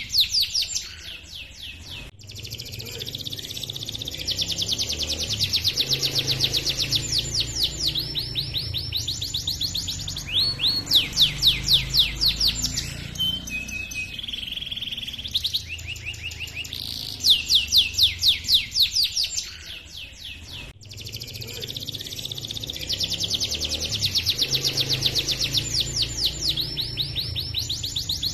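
Domestic canary singing long rolling trills of rapid repeated notes, broken by short pauses and a few short chirps. This is the 'gacor' rolling song used as a training recording for other canaries.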